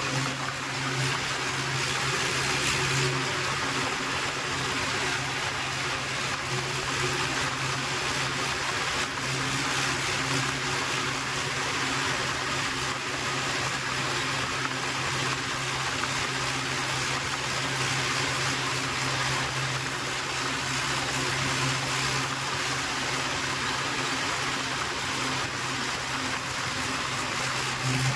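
Tractor engine running steadily at a constant pitch while driving, under a steady rushing noise.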